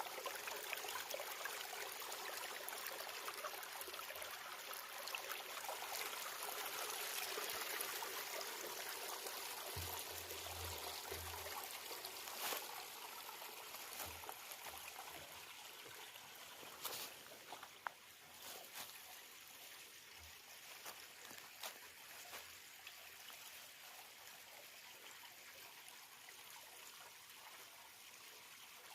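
Creek water trickling in a steady hiss that grows fainter over the second half, with a few scattered clicks.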